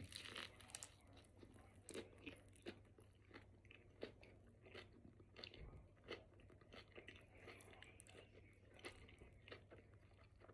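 A person chewing a mouthful of steak and cheese sub, with faint, irregular wet mouth clicks and soft crunches of the bread and vegetables.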